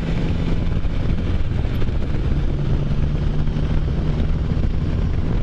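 Can-Am Spyder F3's three-cylinder engine running steadily at cruising speed, with a steady rush of wind noise on the microphone.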